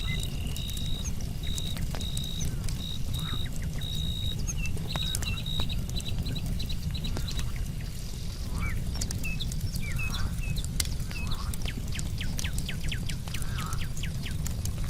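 Campfire crackling with frequent sharp snaps, over a constant low rush. Crickets chirp in a high, even pulse for the first five seconds or so, and short high calls come from other night creatures.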